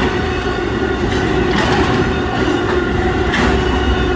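An Amtrak train rolling past close by: a steady rumble of wheels on rail, with repeated clicks as the cars' wheels cross rail joints.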